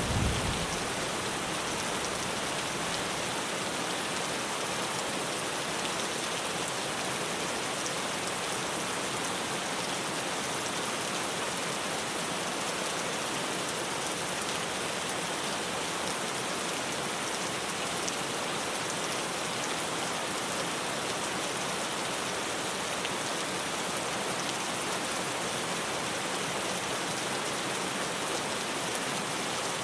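Steady heavy rain drumming on a tin roof. The last of a low thunder rumble dies away in the first second.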